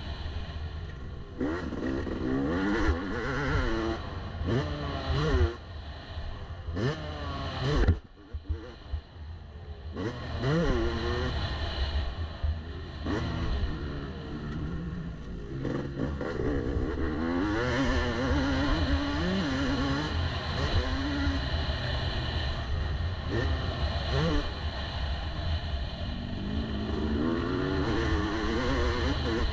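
Yamaha YZ250 two-stroke single-cylinder motocross bike, ridden hard around a track, its revs climbing and dropping again and again with throttle and gear changes. About eight seconds in there is a sharp knock, then the engine goes quiet for a couple of seconds before it picks up again.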